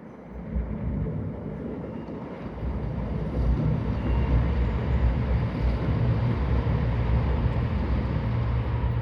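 Diesel multiple-unit train running past, its engines making a steady low drone that begins just after the start, swells from about two and a half seconds in, then holds.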